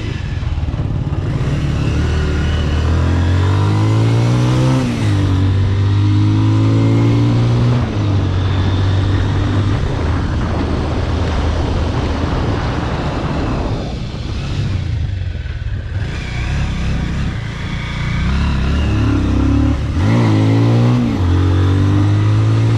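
Bajaj Pulsar RS200's single-cylinder engine through a modified aftermarket exhaust, accelerating on the road: the engine note climbs and drops back at each upshift, eases off about two-thirds of the way in, then pulls up through the gears again. Wind noise on the microphone runs underneath.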